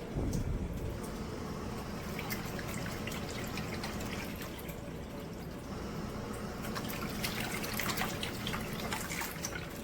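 Water sloshing and dripping in a portable washing machine's tub, with many small splashes.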